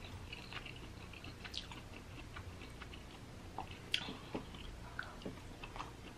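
Quiet close-miked chewing of crab meat in garlic butter, with many small wet mouth clicks and one sharper click about four seconds in.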